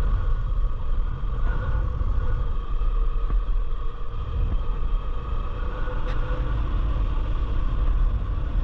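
Honda Tornado 250 single-cylinder motorcycle engine running steadily while riding, with heavy wind rumble on the microphone.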